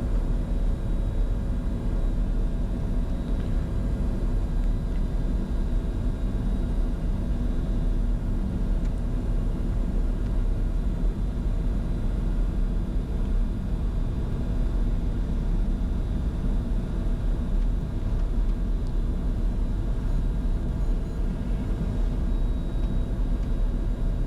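Steady cockpit noise of a Bombardier Challenger 605 business jet on final approach with landing gear down and flaps at 45: a constant low rumble of airflow and engines with a few faint steady tones above it.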